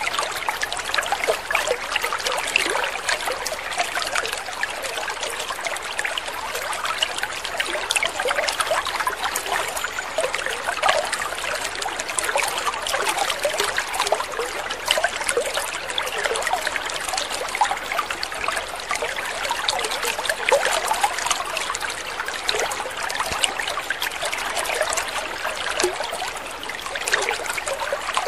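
Water trickling steadily: a continuous babble of small splashes and drips with no pauses.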